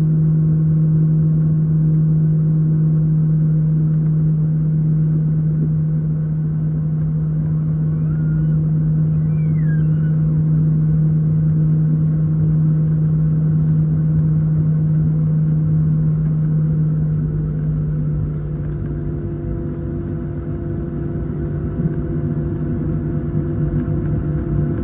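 Cabin noise inside a Boeing 737-700 taxiing: a steady drone from its CFM56-7B turbofan engines over a low rumble, easing slightly about two-thirds of the way through.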